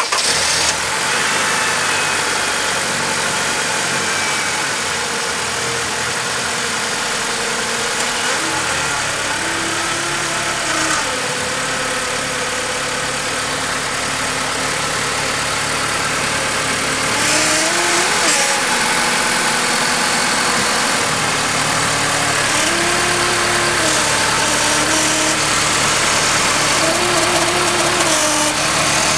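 Honda Stream 2.0 RSZ idling just after start-up, with an abnormal whine from its CVT (continuously variable transmission) over the engine. The whine's pitch rises and falls in slow waves every couple of seconds.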